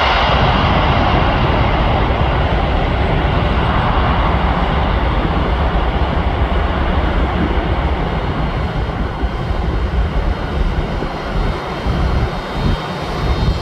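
Jet airliner engines running loud as the plane passes, the rushing noise slowly fading. Near the end, uneven low rumbling, like wind on the microphone.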